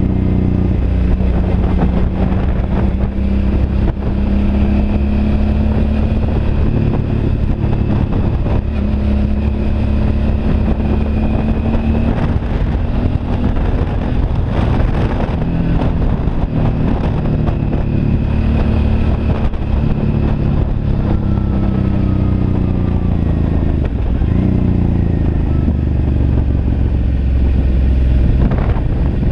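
Suzuki V-Strom DL650's 645 cc V-twin engine running under way at a steady cruise, with wind and road noise. The engine note falls and then climbs again about three quarters of the way through.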